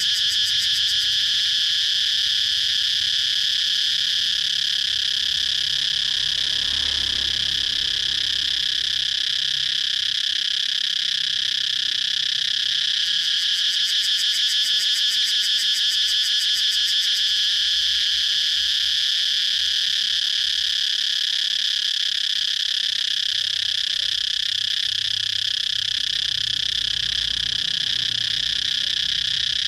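Cicadas singing: a loud, steady, high-pitched buzz with a fast pulsing texture.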